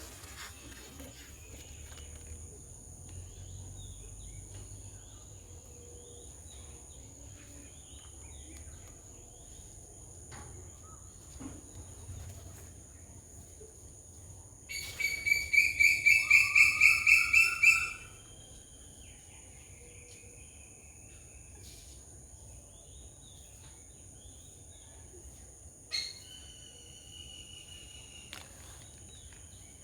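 Steady high-pitched insect drone with scattered faint bird calls. About halfway through, a loud run of sharp, rapidly repeated calls lasts about three seconds, and a short single call comes near the end.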